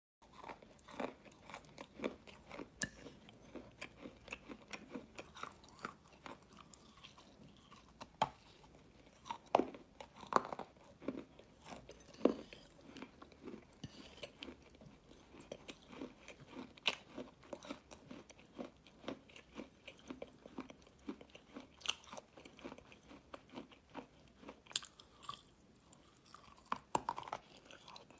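Close-up eating sounds: a person biting and chewing a chocolate-coated treat, with irregular crunchy clicks and wet mouth sounds, and a few louder bites along the way.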